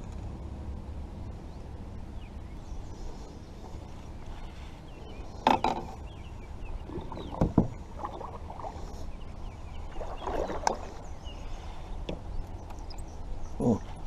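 Knocks and bumps on a small fishing boat's hull, four louder ones a few seconds apart, over a steady low rumble.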